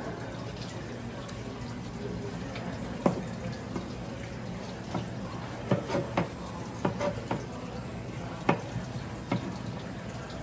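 Busy market ambience: irregular sharp clacks and knocks, like utensils or trays being handled, over a steady low background murmur.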